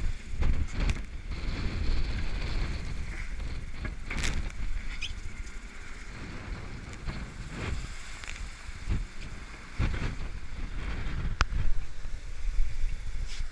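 Wind buffeting the microphone on a sailboat under way, a heavy low rumble with scattered short knocks.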